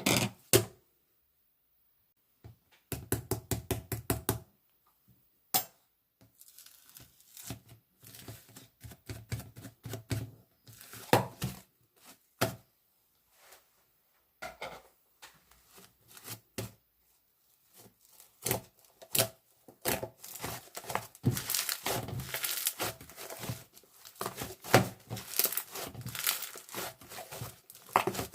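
Paper or plastic being handled close up: crinkling and rustling with sharp taps and clicks, sparse at first and busier in the last third.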